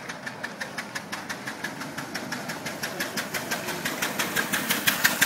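Engine of a veteran motor car, built before 1905, chugging as it drives up and past. Its firing beats come evenly at about seven a second and grow louder as it nears.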